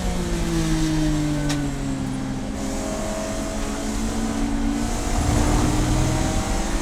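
Race car engine running hard, its note falling over the first couple of seconds as the car slows, then climbing again from about five seconds in as it accelerates.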